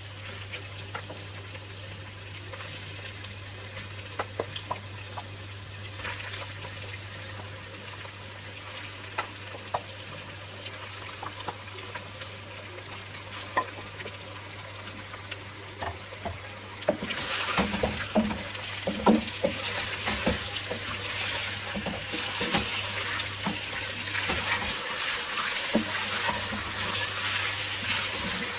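Marinated boneless chicken sizzling as it fries in hot oil with browned onion paste, with scattered knocks and scrapes of a spoon stirring it. The sizzle grows much louder about two-thirds of the way through.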